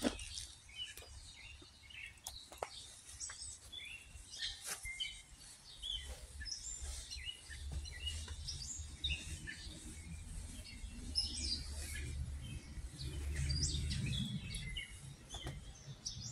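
Birds chirping and singing in many short calls, with a low rumble that builds in the second half and is loudest near the end.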